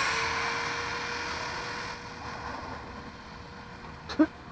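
Brushed electric RC truck motor and drivetrain running at full speed on a drag run, its sound fading steadily as the truck pulls away and dying out after about two seconds. A thin steady tone runs underneath, and a brief short sound comes near the end.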